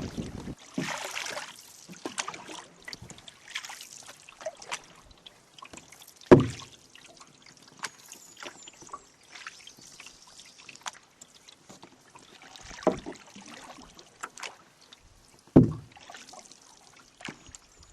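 Canoe on the water: paddle splashes and water trickling and dripping, with two sharp knocks, about six seconds in and near the end.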